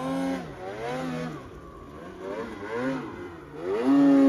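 Snowmobile engine revving up and down in repeated throttle blips, then climbing to high revs and held there near the end.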